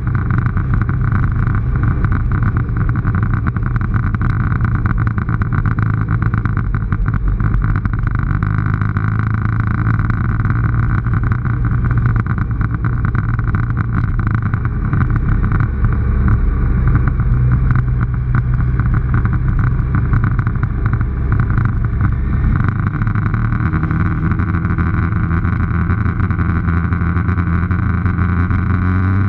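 Motorcycle engine running steadily under way, heard from on the bike, its note shifting several times with the throttle, with a slow rise near the end.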